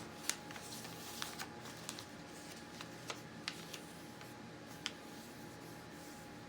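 A sheet of copy paper being handled and folded into a paper airplane: scattered crisp crackles and taps as the paper is flipped over and creased in half.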